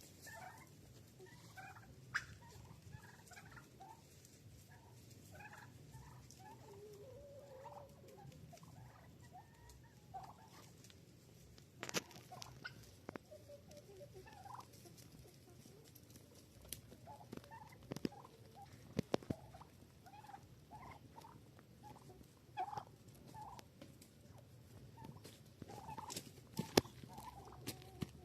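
Domestic poultry calling faintly in many short notes, scattered throughout, with a few sharp clicks or taps in between.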